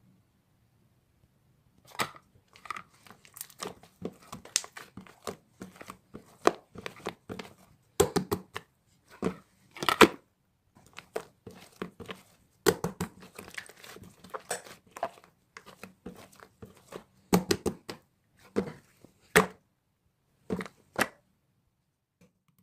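Something being crumpled and torn by hand: a long run of irregular crackles and rustles that starts about two seconds in and stops shortly before the end.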